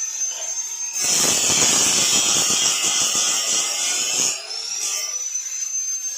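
High-speed electric power tool whining as it runs free, then cutting into material for about three seconds with a loud rough hiss. After the cut the whine comes back lower and climbs as the tool spins back up to speed.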